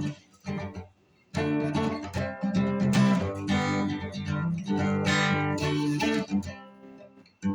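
Acoustic guitar strummed in unhurried chords, demonstrating the tempo of the song; it breaks off briefly about a second in, then strums steadily and rings out near the end.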